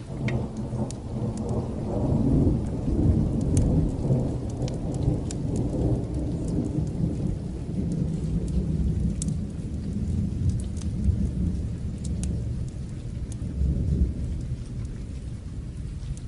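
A long roll of thunder over steady rain. It swells over the first couple of seconds and rumbles on, easing off near the end. Scattered faint sharp crackles of a wood fire sound over it.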